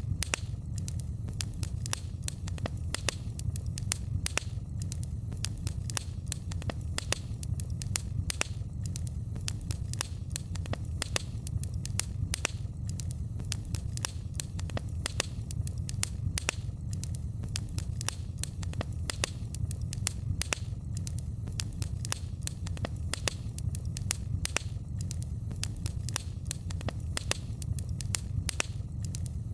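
Wood fire crackling, with frequent sharp pops and snaps several times a second over a steady low rumble.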